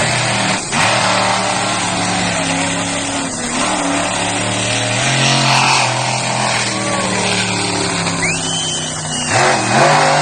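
Monster truck engine running loud and revving, its pitch rising and falling as the throttle changes. A high whistle rises and then slowly falls near the end.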